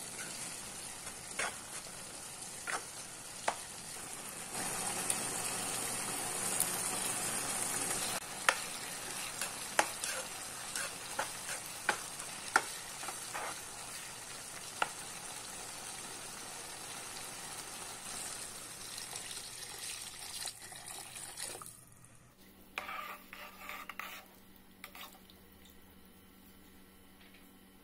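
Chopped tomatoes and green chillies sizzling in a pan while a spatula stirs them, with sharp taps and scrapes of the spatula against the pan. The sizzle drops away about three-quarters of the way through, leaving a few quieter stirs.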